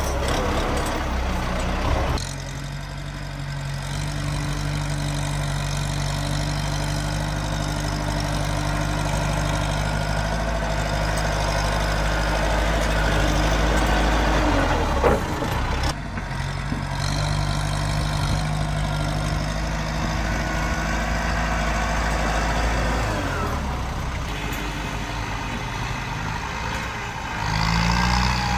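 Tractor engine running steadily at a low, even note, with a sharp metallic knock about halfway through. The engine note changes abruptly about two seconds in, in the middle and near the end.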